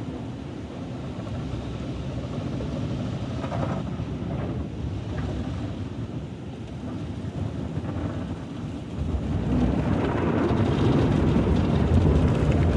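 Automatic car wash machinery working over a truck, heard from inside the cab: a steady low rushing and rumbling that grows louder about nine seconds in.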